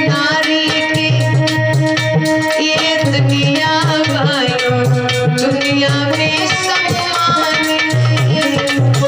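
Instrumental bhajan music: a keyboard melody wavering over a held drone, with a steady hand-drum beat underneath.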